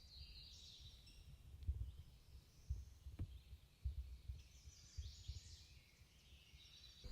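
Songbirds singing faintly in spring woods, several short phrases in turn, with scattered soft low thumps throughout.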